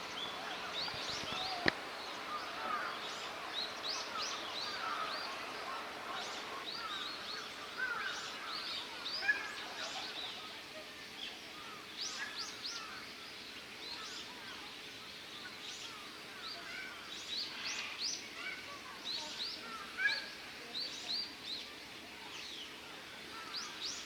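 Small birds chirping: many short, quick high calls, scattered throughout over a faint murmur of background noise. One sharp click about two seconds in.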